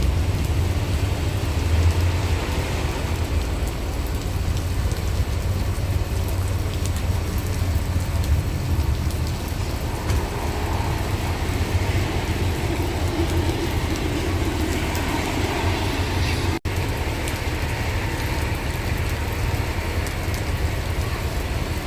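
Heavy rain falling steadily, over a constant low rumble of wind and vehicles. The sound drops out for an instant about two-thirds of the way through.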